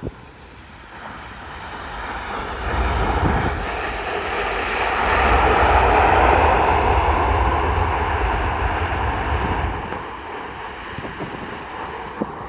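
Airbus A380's four turbofan engines roaring as the jet lands. The roar swells over a few seconds, peaks about six seconds in with a deep rumble beneath it, and dies away about ten seconds in.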